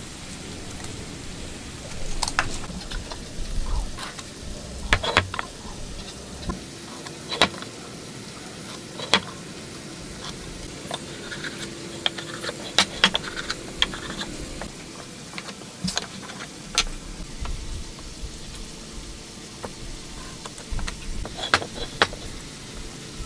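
Irregular sharp knocks and taps of wooden pieces being handled and fitted together, some coming in quick pairs, over a steady hiss.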